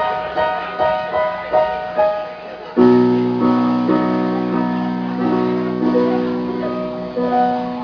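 Live keyboard playing the song's intro: a repeating figure of short notes, about two or three a second, then about three seconds in a strong held low chord comes in with slower, longer notes over it.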